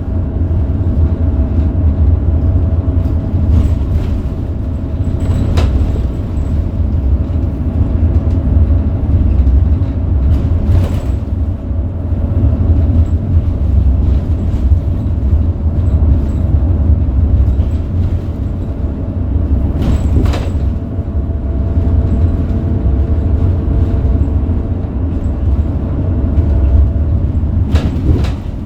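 Scania DC9 five-cylinder diesel of a Scania K270UB bus running, a steady low rumble with a faint whine over it, and several sharp knocks or rattles spread through.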